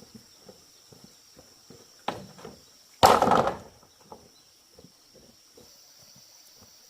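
Steady high-pitched insect drone, with light taps about twice a second, a short scrape about two seconds in and a sudden loud noisy burst lasting under a second about three seconds in.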